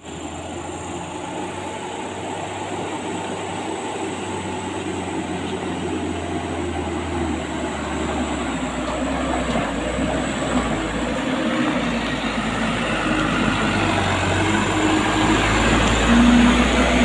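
Heavy diesel truck engine labouring under load on a steep climb: a steady, rumbling drone that grows gradually louder.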